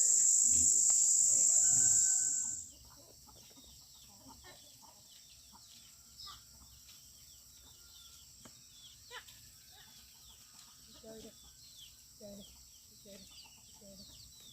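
A loud, high, steady insect drone stops abruptly about two and a half seconds in. Chickens then cluck softly on and off, with many short high chirps around them.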